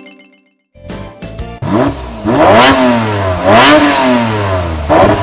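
Cartoon sound effect of a vehicle engine revving over and over, its pitch climbing and dropping about once a second, loud. It is preceded by the tail of a falling musical jingle and a few clicks.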